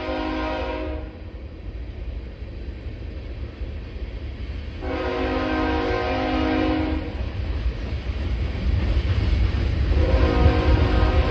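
BNSF locomotive horn sounding in separate blasts: one ending about a second in, a second of about two seconds midway, and a third starting near the end. Under the horn, the train's low rumble grows louder as it approaches.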